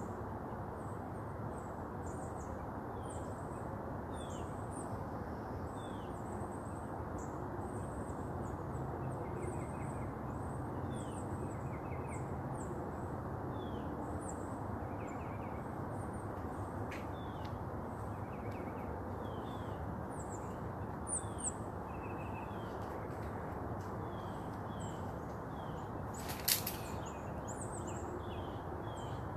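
Many small birds chirping and calling over a steady background hiss at sunrise, a dawn chorus. A single sharp knock comes near the end.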